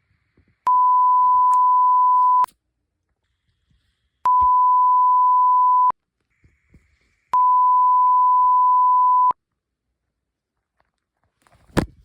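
Three long, loud electronic beeps, each a steady single tone lasting about two seconds, with pauses of roughly two seconds between them.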